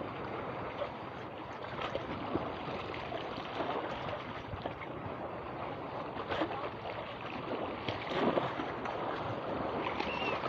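Steady rush of sea water and wind on a boat under way, with a couple of brief louder swells about two-thirds of the way through.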